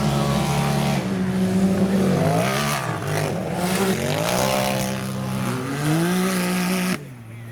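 Mega truck engine revving hard, its pitch climbing and falling several times as the throttle is worked. The sound drops away sharply near the end.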